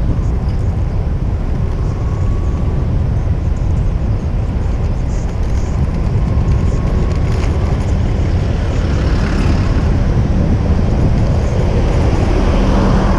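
Wind buffeting a GoPro's microphone as the bike rides, a steady low rumble, with city street traffic behind it that grows louder in a broad hiss near the end.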